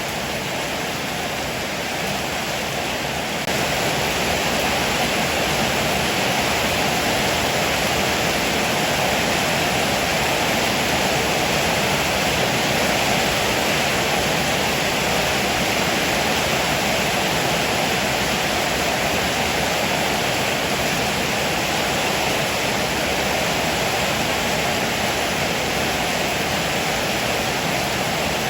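Heavy rain falling steadily, a dense even hiss that turns a little louder about three and a half seconds in and then holds.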